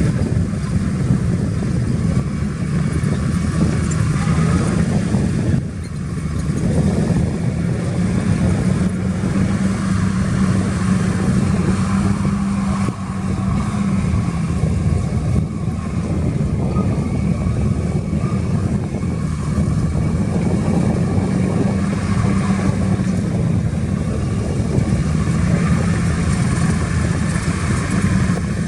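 Diesel engine of a heavy earthmoving machine running steadily, its pitch wavering slightly, with two brief dips in level.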